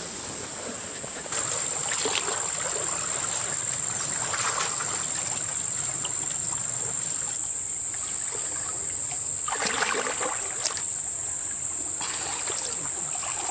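Water and mud splashing and sloshing in irregular swishes as people crawl through a shallow muddy wash. A steady high-pitched whine comes in about a second in and holds throughout.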